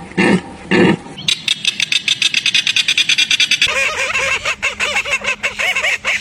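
Animal calls. A few low, pitched calls come about twice a second, then from about a second in a rapid chattering run of short calls, many a second, which turns higher-pitched and more call-like from about four seconds in.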